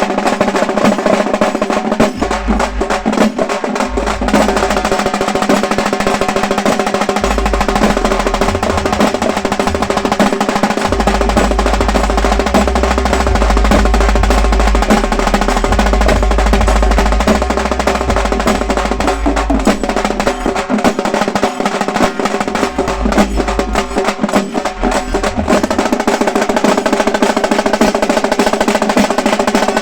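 A group of halgi frame drums beaten with sticks in a fast, continuous drum roll, with a steady held tone underneath.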